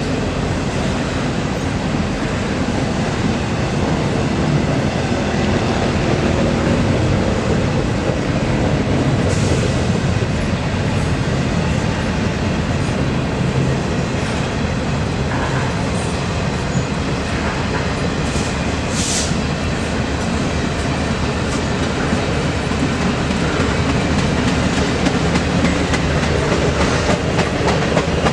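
Freight train cars rolling past, a steady heavy rumble of steel wheels on rail with clickety-clack over the joints, and a brief high squeal about two-thirds of the way through. The wheel clicks grow sharper and more frequent near the end.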